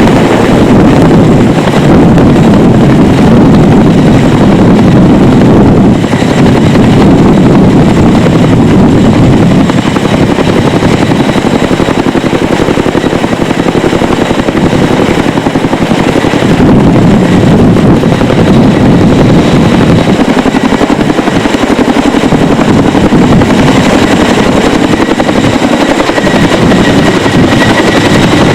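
CH-47 Chinook tandem-rotor helicopter running close by: a loud, steady noise of rotors and twin turboshaft engines with rapid blade chop and a faint high whine.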